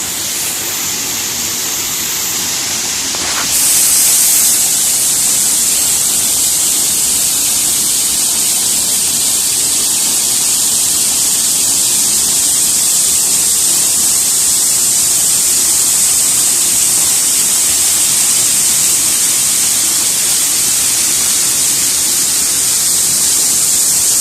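Waterfall heard from right behind and beneath its falling curtain: a loud, steady rush of water that grows louder and brighter about three and a half seconds in.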